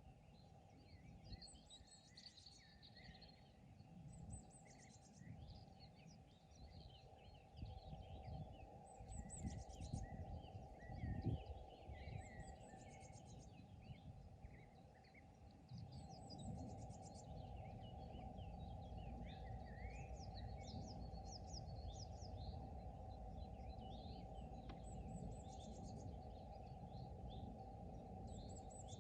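Faint chorus of several songbirds singing and calling with short chirps and rapid trills, over a low steady rumble that swells briefly a little before the middle and grows louder from about halfway through.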